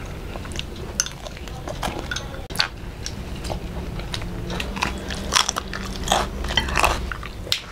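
Close-miked biting, crunching and chewing of fried small fish and fried shrimp eaten by hand: a string of sharp crunches and wet mouth sounds over a low steady hum.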